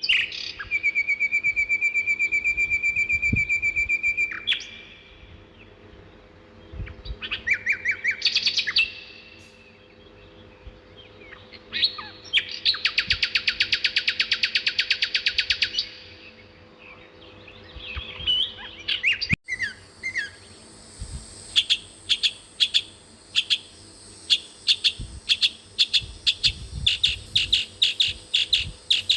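Birds singing: a fast, even trill for the first four seconds, then scattered chirps, a second fast buzzy trill in the middle, and in the last third a long series of sharp, repeated chirps about two a second.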